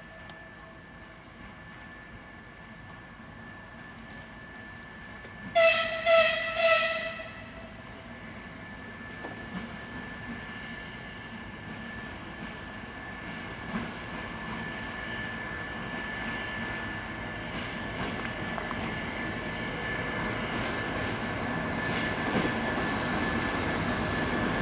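Diesel locomotive horn sounding three short blasts about five and a half seconds in, over the running noise of a train that grows steadily louder toward the end.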